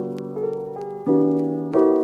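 Background music: piano with chords struck about every half second.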